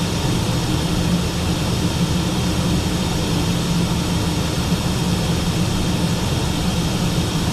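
Steady in-flight cockpit noise of a Learjet 45XR: even airflow rush with a low drone from its two rear-mounted turbofan engines, holding constant.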